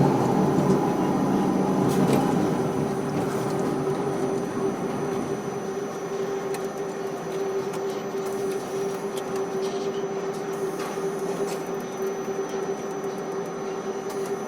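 Steady machinery hum with one steady mid-pitched tone running through it, from a ship-to-shore quay crane at work; a little louder in the first two seconds, with a few faint clicks.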